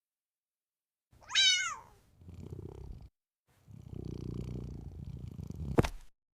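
A cat meows once, a short call falling in pitch, then purrs in two stretches. A sharp click sounds near the end.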